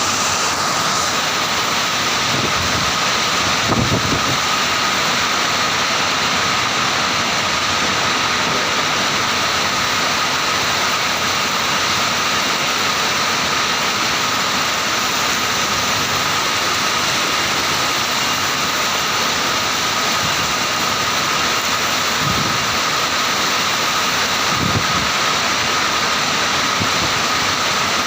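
Heavy rain falling steadily in strong wind, a dense even hiss, with a few low gusts of wind rumbling through about three seconds in and again a little past twenty seconds.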